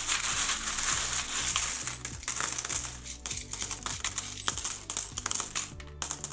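Loose metal coins clinking and chinking against each other as a hand rummages through a tub of them, a dense, continuous run of small metallic clicks that stops near the end.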